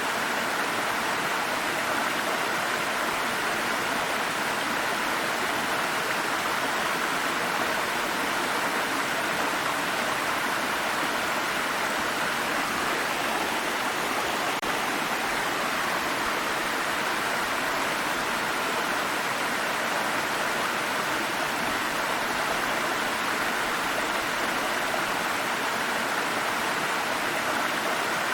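Water stream flowing over rocks, a steady rushing and burbling that neither rises nor falls.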